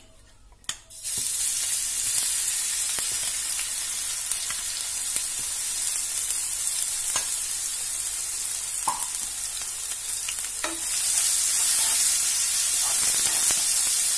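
Crushed ginger, green chilli and garlic sizzling in hot oil with cumin seeds in a non-stick pan. The sizzle starts about a second in as they hit the oil, then runs steadily with a few light clicks and grows louder near the end.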